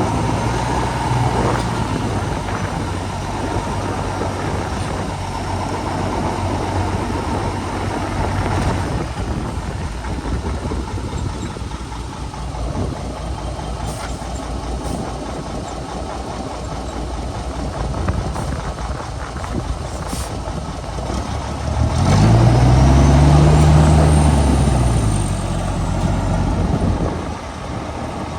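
Heavy diesel engine of a Shantui bulldozer running under load, steady at first, with a few sharp clanks. About three-quarters of the way through the engine revs up and back down in one long swell, its loudest point.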